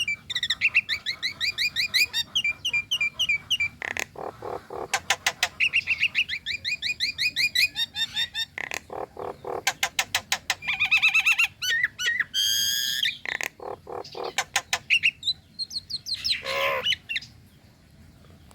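Nias hill myna calling: fast runs of repeated sharp chirps and clicks, broken by a loud ringing whistle and, later, a wavering falling note. The calling stops shortly before the end.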